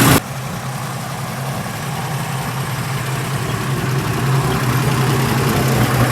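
1968 Ford Bronco engine idling steadily, freshly started on a new battery, growing gradually louder.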